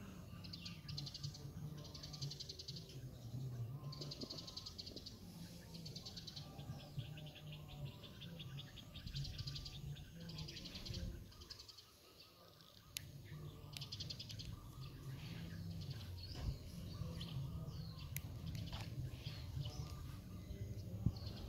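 High-pitched trilling bird calls, each a quick run of rapid notes lasting about a second, repeated every second or two over a low, steady rumble.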